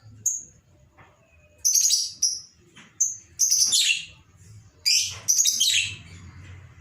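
Lovebird giving a series of sharp, high-pitched chirps and squawks in short bursts, a few sliding downward in pitch, the calls of an agitated ('emosi') bird used as a lure sound for other lovebirds.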